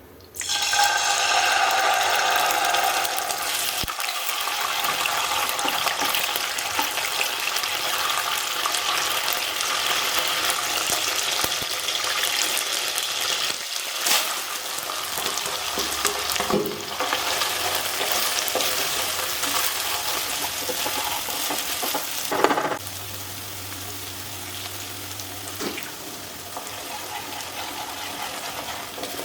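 Food sizzling as it fries in hot oil in a pan, with a few knocks of a utensil. The sizzle starts abruptly and quietens about two-thirds of the way through.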